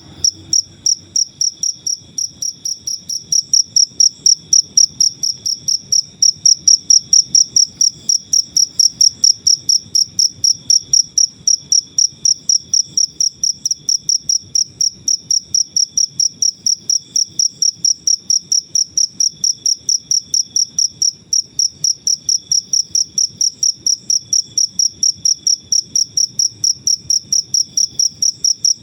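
A cricket chirping steadily, a clear high-pitched chirp repeated evenly about three times a second.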